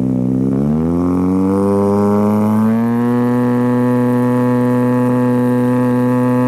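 Ford Fiesta RS WRC's turbocharged four-cylinder engine revving up about half a second in, then held at steady high revs.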